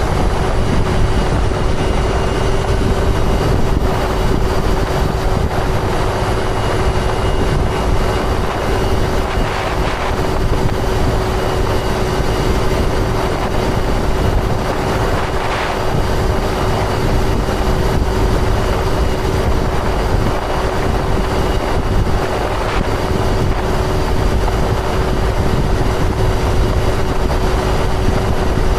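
2005 John Deere sprayer running steadily, a constant engine drone with a steady tone running through it.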